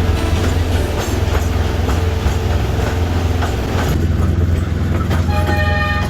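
Small tourist train running on its track: a steady low rumble with a clickety-clack of wheels over rail joints. Near the end a steady horn-like tone sounds briefly before everything fades out.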